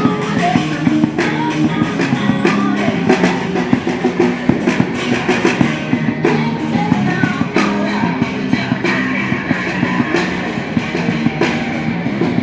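Rock band playing live in the open air: electric guitar and drum kit with a steady beat, with some singing.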